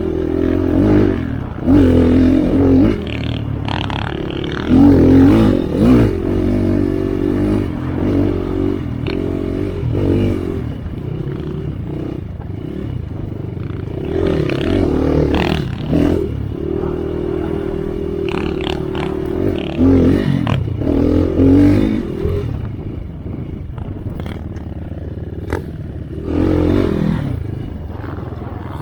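Enduro dirt bike engine revving up and down again and again under throttle, with scattered knocks and rattles.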